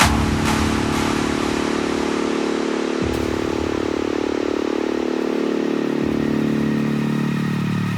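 A low, steady droning tone with several pitches at once over a hiss, beginning with a sharp hit.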